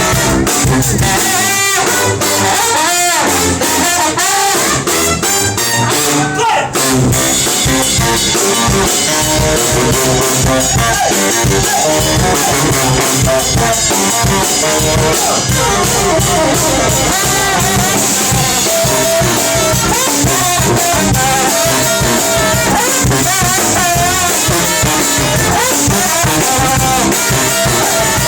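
A live brass band playing an upbeat number, with horns over a drum kit.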